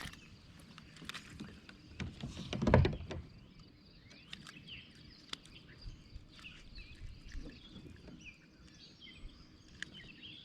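Scattered clicks and knocks around a fishing kayak, with one louder low thump about three seconds in. Short bird chirps start around halfway through.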